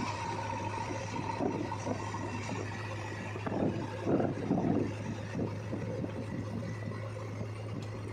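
Diesel engine of heavy earthmoving machinery running steadily, with irregular rumbles and clatter rising over it about halfway through.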